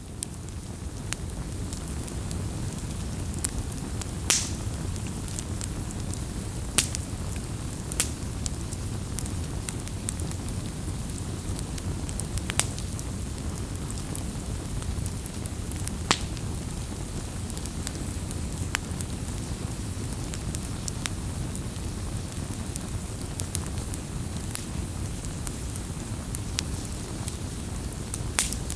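Campfire burning: a steady low rush of flames with sharp crackling pops every few seconds, the loudest about 4, 7, 16 and 28 seconds in.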